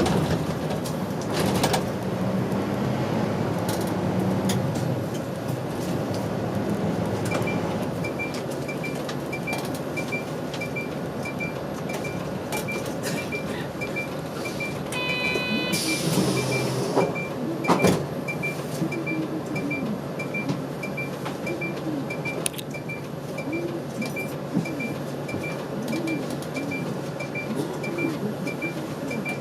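City route bus interior while driving: the diesel engine and road noise run steadily, and its pitch rises and falls over the second half. From about seven seconds in, a turn-signal indicator ticks evenly about twice a second. About halfway through there is a brief hiss.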